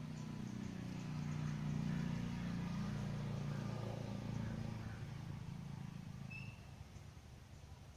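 A motor vehicle passing: a low engine and road rumble swells over the first couple of seconds, then fades away by about six seconds in. A single short bird chirp comes near the end.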